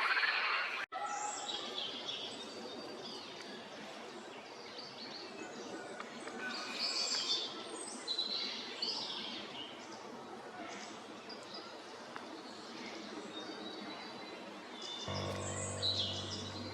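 Several wild birds singing and calling at once, many overlapping chirps and whistles. Steady background music comes in near the end.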